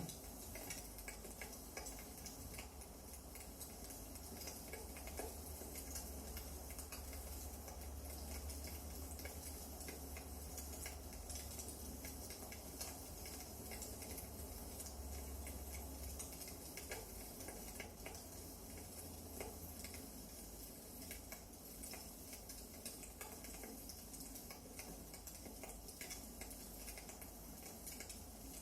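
Burning firewood in a fireplace crackling, with frequent irregular small pops and snaps over a faint steady hiss.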